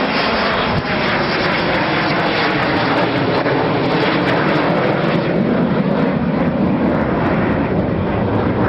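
Fixed-wing aircraft engines running loud and steady as the aircraft flies.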